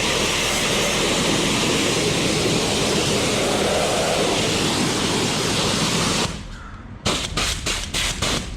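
High-pressure spray wand at a self-service car wash blasting water onto a muddy mountain bike, a loud steady hiss that cuts off about six seconds in, followed by several quick short blasts near the end.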